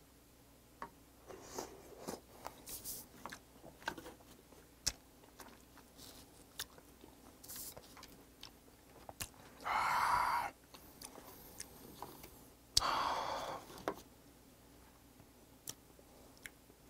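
Close-up mouth sounds of someone chewing raw river oyster (beotgul) meat: soft, irregular wet clicks and smacks, with two louder, longer sounds about ten and thirteen seconds in.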